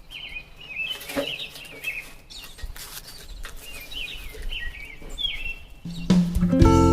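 Small birds chirping and twittering in short repeated calls, with a few faint knocks. About six seconds in, strummed acoustic guitar music starts and is louder than the birds.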